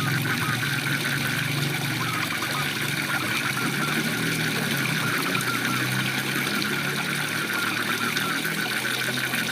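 A waterfall rushing steadily, with frogs croaking in a low, rapid pulsing drone. A fast, high chirping runs through it, fading in the middle and returning near the end.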